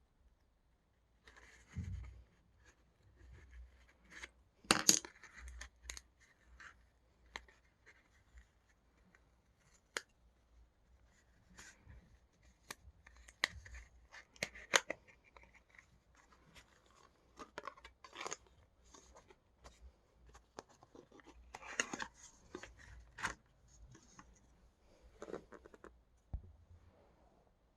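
Photo-card packaging being handled and opened by hand: irregular rustling and scraping with sharp clicks and snaps. The loudest bursts come about five seconds in, around fifteen seconds and around twenty-two seconds.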